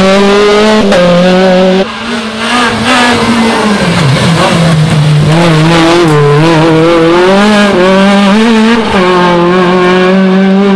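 Rally car engine running loud at high revs, its pitch stepping down and up with gear changes and throttle.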